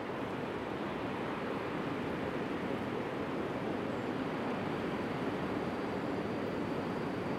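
Electric-hauled container train approaching out of sight: a steady rushing rumble that slowly grows louder. A faint high brake squeal comes in about halfway, from braking on the steep downhill gradient.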